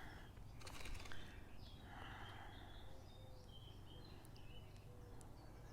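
Quiet outdoor ambience with faint, distant small birds chirping.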